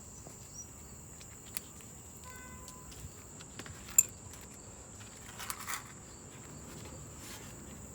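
Crickets chirping in a steady high trill, with a few light clicks and taps, the sharpest about four seconds in.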